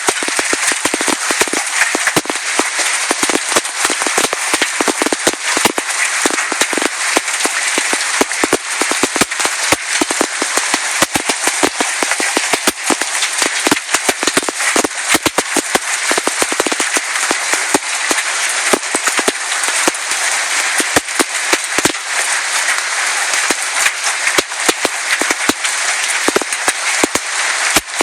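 Heavy hailstorm with large hailstones: a dense, steady hiss of falling hail, full of irregular sharp knocks as the bigger stones strike hard surfaces.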